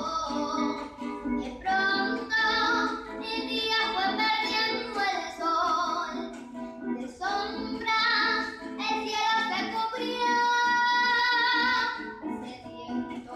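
A woman's voice singing an estilizado llanero song over plucked-string accompaniment, holding one long note near the end.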